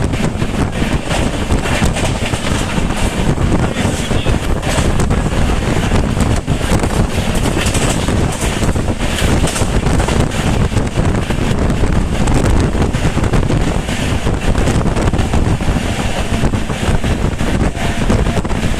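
Wind buffeting the microphone over the steady rumble of a moving passenger train, with a constant spread of small rattles and knocks.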